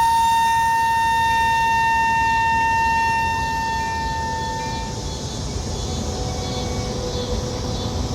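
A commuter train at the station: a loud, steady high-pitched tone with overtones carries on over the train's low rumble and cuts off about five seconds in, leaving the rumble.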